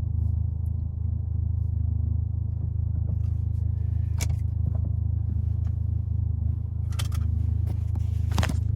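Volkswagen Mk7 GTI's 2.0-litre turbocharged four-cylinder idling steadily with a low hum through a newly fitted aftermarket downpipe, then switched off at the very end.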